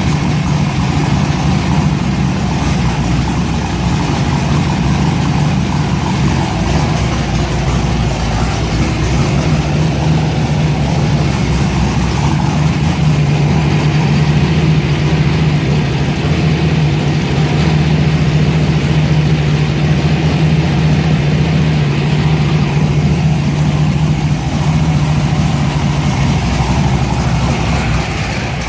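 Freshly built Chevy 350 small-block V8 with an aggressive solid-lifter camshaft, running steadily at idle.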